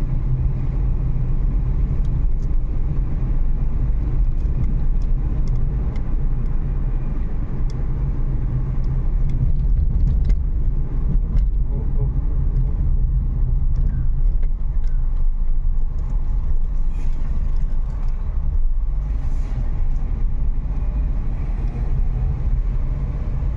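Steady low rumble of a Renault Kiger driving along a road, heard from inside the car: engine and tyre noise with a few faint ticks.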